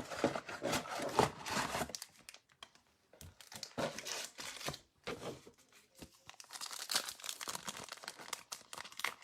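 Trading-card pack wrapper being torn open and crinkled, with irregular crackling.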